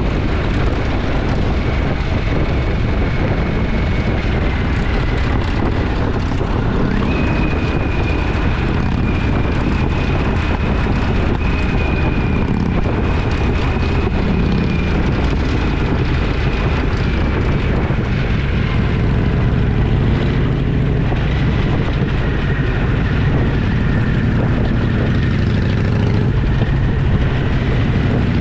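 Motorcycle engine running steadily while riding, with wind and road noise over the camera; a faint high whine rises in pitch about seven seconds in and settles lower in the last third.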